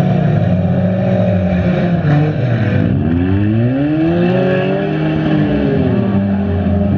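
Several stock front-wheel-drive cars' engines running hard together as they race and bump around a dirt track. Around the middle, one engine's pitch swings up and falls back as it revs.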